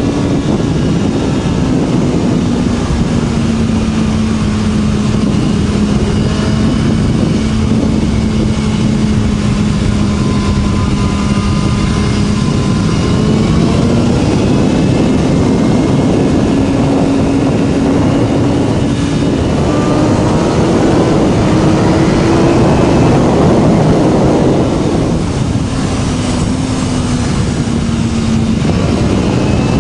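BMW S1000RR's inline-four engine running through an Akrapovic slip-on exhaust while riding. It holds a steady pitch for about ten seconds, rises gradually in the middle, then drops near the end. Heavy wind rush covers the mic.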